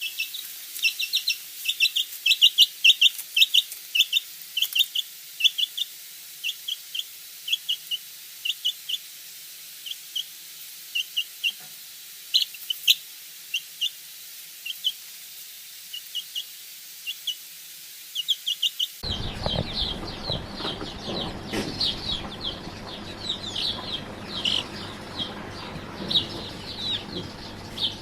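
Birds chirping in short, sharp calls repeated every fraction of a second. About two-thirds of the way in the sound changes abruptly to a busier recording, with many overlapping chirps over a fuller background noise.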